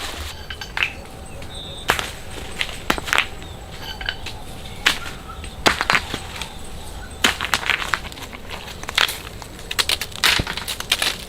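Dry wood cracking and snapping: about a dozen sharp, irregular cracks, as branches are broken during shelter building.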